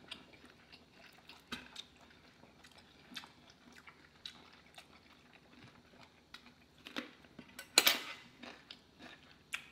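Close-miked chewing and wet mouth sounds of people eating large honey garlic prawns, with scattered small smacks and clicks and one louder burst near the end.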